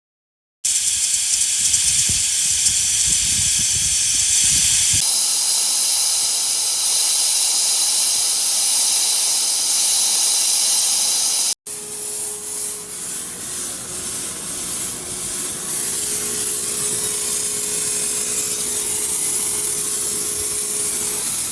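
Steady, loud hiss of a pressurised jet used to clean a car's air-conditioning evaporator, in two stretches broken by an abrupt cut about halfway; in the second a faint steady tone sits under the hiss.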